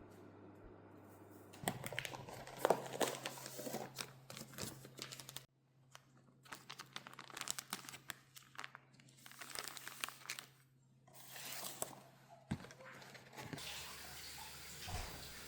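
Crinkling and rustling of something being handled, with many scattered sharp clicks and taps, broken into stretches by sudden cuts. Near the end it gives way to a steadier hiss.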